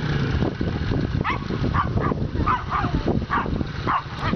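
Short animal calls repeated about twice a second, starting about a second in, over the low steady running of a dirt bike engine.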